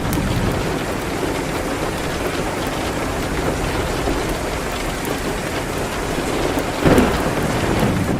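Steady rain against a window, with the sparse high crackles of a wood fire. A short, louder burst comes near the end.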